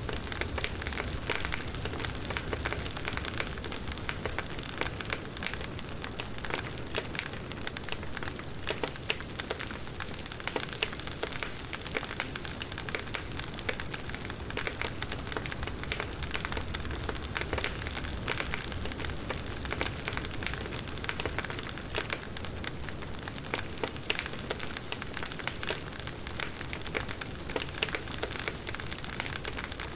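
Wood campfire crackling, with a steady hiss and many small sharp pops and snaps.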